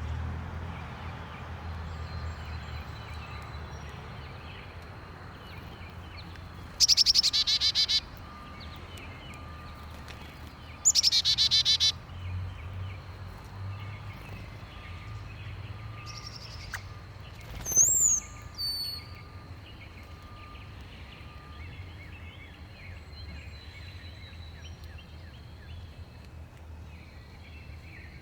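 Backyard birds calling: two loud, rapid rattling calls of about a second each, a few seconds apart, over faint chirping, then a short high whistled note.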